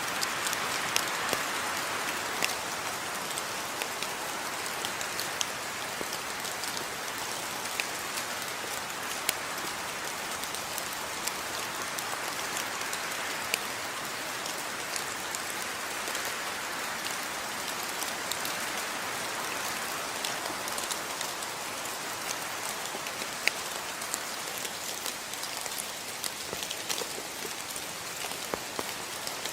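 Steady rain falling, a continuous hiss dotted with sharp individual drop ticks.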